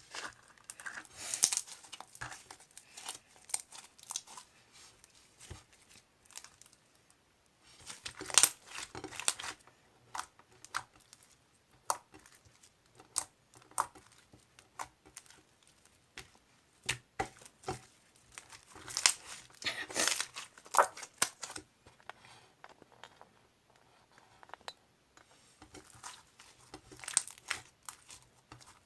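Crinkling and rustling of wrapping material being handled close up, with tearing sounds, coming in irregular bursts and sharp clicks with short pauses between.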